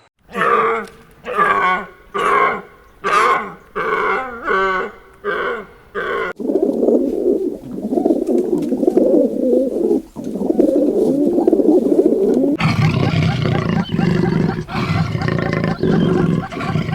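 Animal calls: a run of about eight short, pitched calls, then a long, low, rough call, then a fuller and louder stretch of calls from about two-thirds in.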